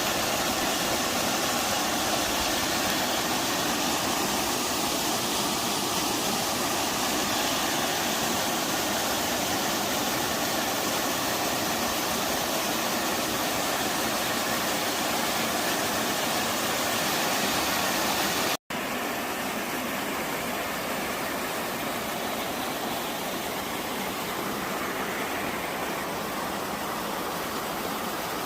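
Mountain-valley waterfall rushing steadily, an even roar of falling water. About two-thirds of the way through it cuts out for an instant and comes back a little softer.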